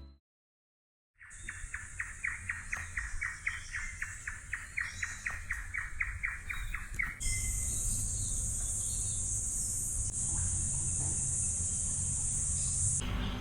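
A bird calling in a fast, even run of short chirps, about four a second, starting after a second of silence and stopping about seven seconds in. A steady high-pitched insect drone, faint under the calls, then grows louder and holds until it cuts off shortly before the end.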